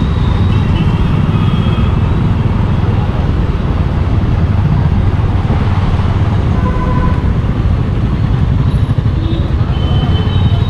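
Steady wind and road noise of a moving motorcycle, with the engine underneath, and a few short horn toots from passing traffic.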